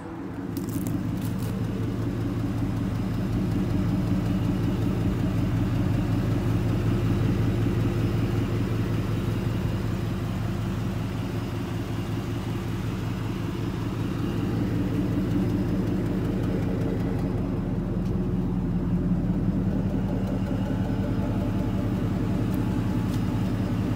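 Lincoln Town Car's 4.6-litre V8 idling steadily, getting louder over the first few seconds.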